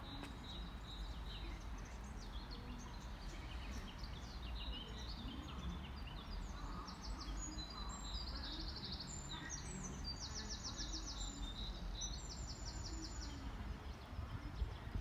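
Small birds singing, a string of chirps with several rapid trills through the middle, over a steady low background rumble.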